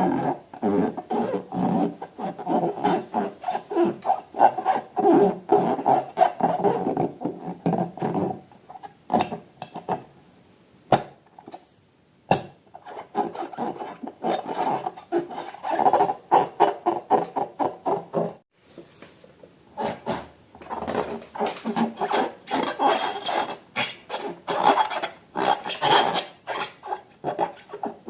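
Rubber balloons being rubbed and squeezed by hand in quick, squeaky rubbing strokes. The strokes stop twice for a few seconds, with two sharp clicks during the first stop.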